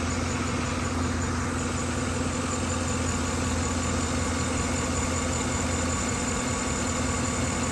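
2013 Chevrolet Silverado's 5.3L V8 idling steadily while misfiring on cylinder 1, a misfire traced to a faulty spark plug.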